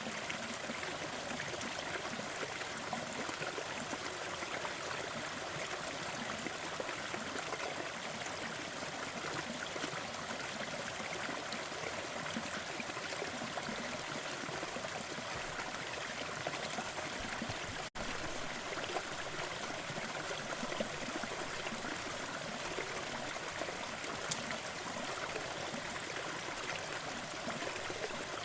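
Waterfall water splashing and rushing steadily, with a split-second dropout about two-thirds of the way through.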